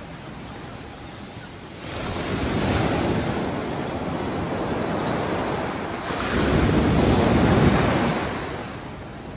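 Ocean waves breaking and washing in. Two swells of surf rise, about two seconds in and louder about six seconds in, and then ease off.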